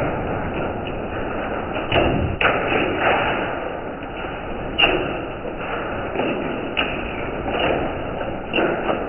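Hail falling hard: a steady rush of hailstones, with sharp cracks of larger stones striking hard surfaces, loudest about two seconds in and again near five seconds.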